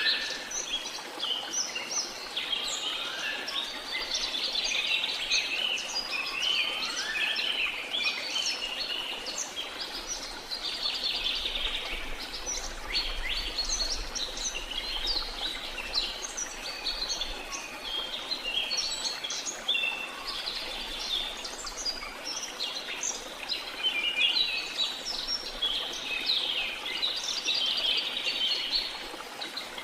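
Dense chorus of many birds chirping and calling, with short overlapping chirps and whistles throughout, over a steady background hiss of rushing water.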